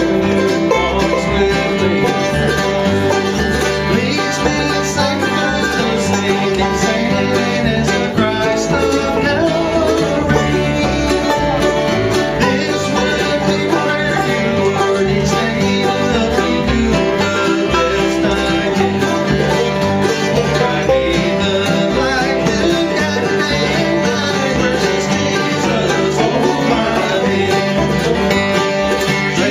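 A bluegrass gospel band playing live, a steady ensemble of plucked string instruments.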